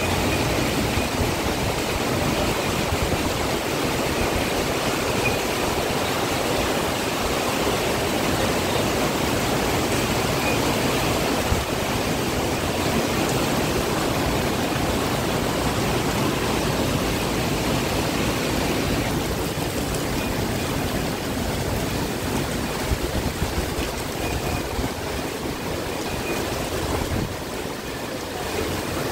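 Heavy rain pouring down steadily, a dense even hiss of water, thinning a little in the last third.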